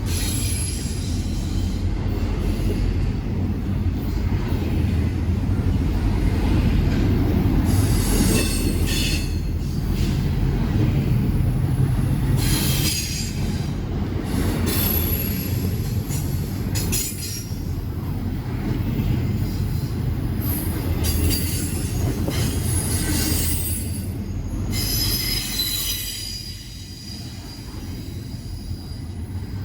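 A CSX intermodal freight train rolling past with a steady low rumble of its cars. High-pitched wheel squeal comes and goes several times as the steel wheels grind against the rails. The rumble eases a little near the end.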